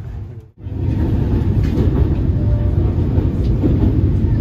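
Passenger train running at speed, heard from inside the coach: a steady low rumble that starts about half a second in, after a brief gap.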